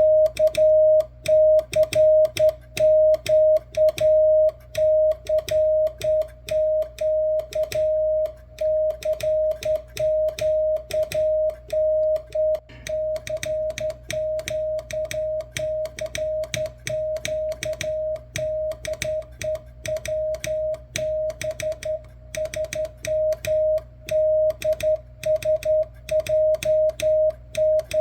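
Morse code sent by hand: a steady mid-pitched CW tone keyed on and off in dots and dashes, heard as the sidetone of a ham receiver monitoring the transmitter's signal, with a sharp click at each key stroke.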